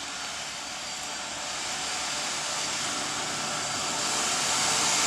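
M62 diesel locomotive approaching, its two-stroke V12 engine heard as a steady rushing noise that grows steadily louder.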